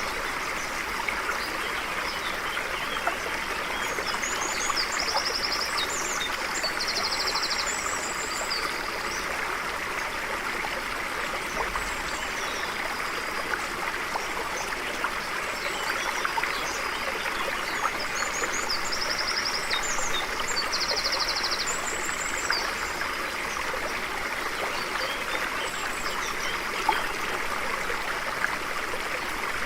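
A stream of water flowing steadily over rocks. A songbird sings two bursts of short, high chirps and trills, one about four seconds in and another about nineteen seconds in.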